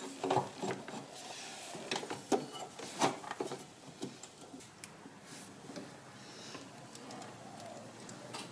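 Scattered light metallic clicks and knocks of hand tools and parts being handled during engine-bay work, a couple of sharper knocks about two and three seconds in.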